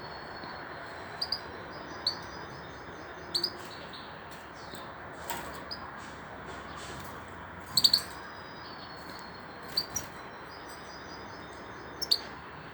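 European goldfinch (parva race, female) giving short, sharp, high chirps, mostly in quick pairs or threes, every couple of seconds, over a steady background hiss.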